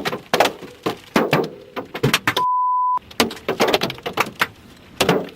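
Large hailstones, close to baseball size, striking the vehicle's body and glass in irregular, sharp knocks. About two and a half seconds in, the knocks drop out for a moment around a steady half-second beep.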